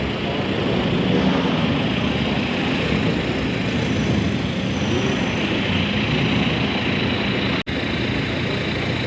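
Steady car engine and road noise heard from inside a car moving slowly, with no revving. The sound cuts out for an instant about three-quarters of the way through.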